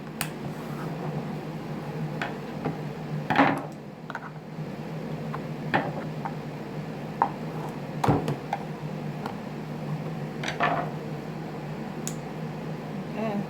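Scattered clicks and clinks of small hard parts and tools being handled while a cordless string trimmer head is taken apart, with a louder knock about eight seconds in. A steady low hum runs underneath.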